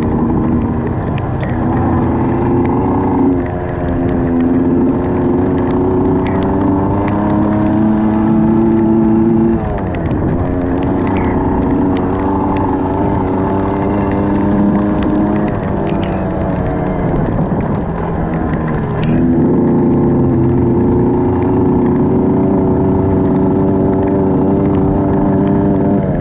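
A vehicle engine running steadily. Its pitch creeps up slowly and falls off sharply three times, about 3, 10 and 19 seconds in, like an engine pulling through gear changes.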